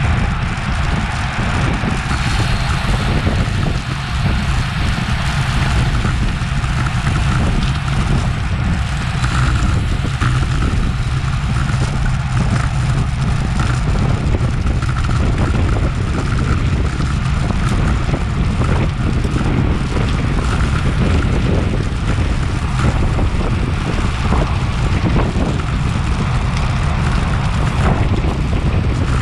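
Wind rushing over the microphone of a bike-mounted action camera at road-race speed: a steady, loud rush with a heavy low rumble.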